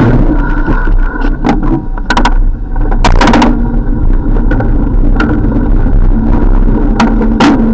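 Road noise heard while riding a bicycle: a steady mechanical hum with scattered clicks and knocks, a few of them louder around three seconds in.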